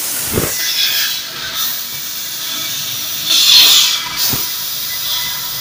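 FLT 6020S laser tube-cutting machine cutting an exhaust pipe: a steady hiss of cutting gas. The hiss swells louder for about half a second a little past halfway, and there are two short low thuds.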